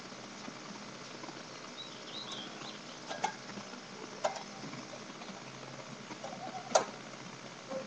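A few short, sharp clicks and knocks over a quiet steady hiss; no engine is running.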